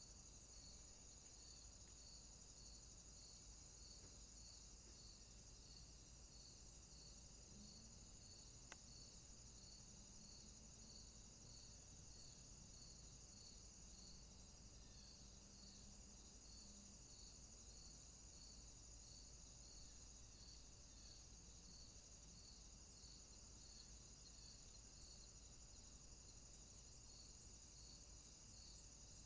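Very faint insect chirping: a regular chirp about every two-thirds of a second over a steady high trill.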